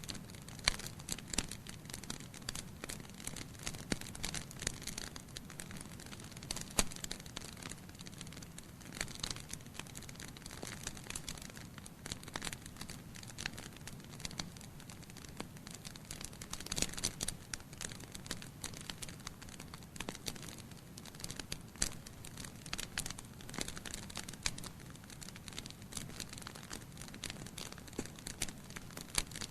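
Wood fire crackling in a fireplace: burning logs give off frequent irregular pops and snaps over a low, steady rumble of flame.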